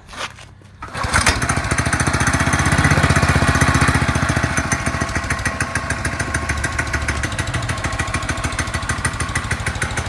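169cc Subaru Robin 6.5 hp single-cylinder go-kart engine being pull-started cold with the choke on, catching almost at once about a second in and running steadily with rapid even firing. It is a little louder for a couple of seconds after catching, then settles.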